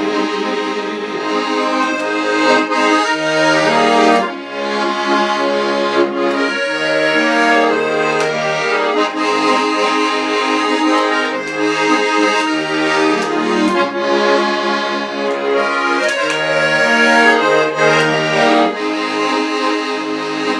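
Accordion playing an instrumental interlude between sung verses: a melody over chords and a bass line, with a brief drop in level about four seconds in.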